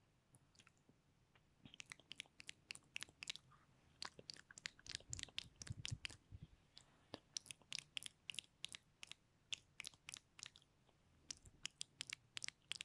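Close-up ASMR mouth sounds: quick clicks and pops of tongue and lips in rapid clusters. They start about two seconds in and come in runs with short pauses between them.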